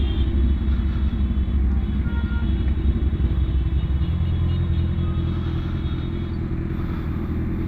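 BMW S1000RR inline-four engine running steadily at low revs while riding in traffic, a low drone with no revving.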